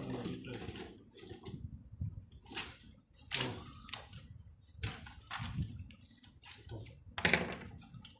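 Irregular clicks, taps and light clatter of small tools and parts being handled on a workbench during a soldering repair of a microwave fan motor's wiring, loudest a few times in the middle and near the end.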